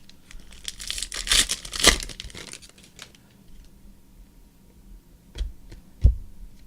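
Trading-card pack's foil wrapper being torn open and crinkled for about two seconds, followed by a few light taps and a short thump near the end.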